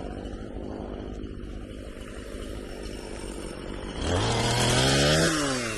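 Two-stroke chainsaw idling, then revved up hard about four seconds in and let back down to idle near the end.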